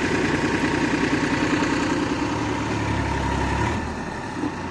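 Massey Ferguson 7250 tractor's diesel engine running with a steady pulsing beat, then easing off and going a little quieter about three-quarters of the way through.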